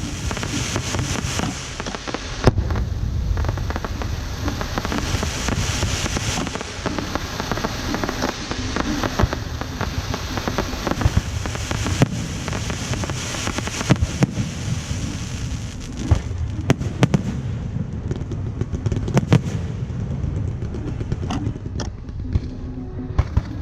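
Fireworks going off in a dense barrage: continuous crackling and popping with louder sharp bangs scattered through it, several of the loudest coming in a cluster a little past the middle.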